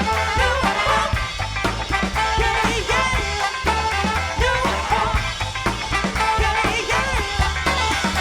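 Upbeat soul band music with a horn section over bass and drums.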